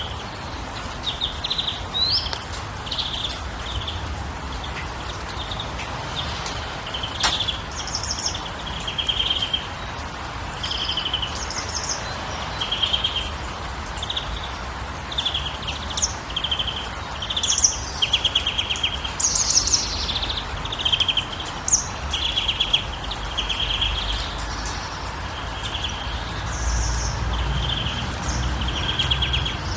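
Several birds singing, short trilled chirping phrases repeating every second or so, over a steady background hiss and a low rumble.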